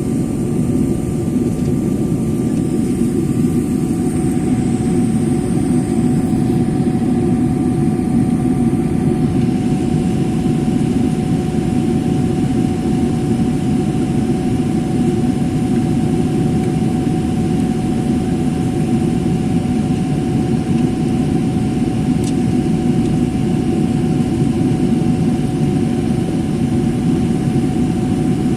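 Steady rumble of a jet airliner's engines and airflow heard inside the cabin, with a steady whine above it; a fainter, higher whine fades out about nine seconds in.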